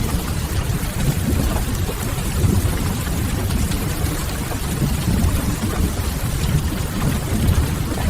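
Mixed rain-and-fireplace ambience: a steady, even rumble of rain and fire with a fainter hiss of rain above it.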